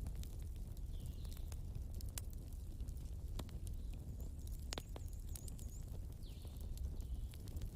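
Wood fire crackling with frequent sharp pops and snaps over the steady low rumble of a flowing river. A few faint high chirps come in about a second in and again around the middle.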